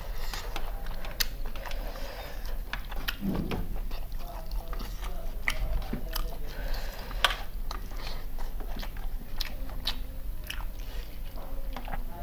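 Chewing and biting while eating country chicken biryani, with irregular sharp clicks and crunches throughout.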